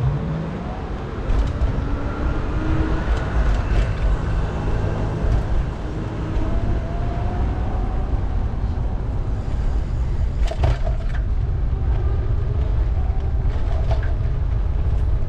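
City street noise heard from a moving bicycle: a steady low rumble of traffic, with a few short sharp clicks about two-thirds of the way in and again near the end.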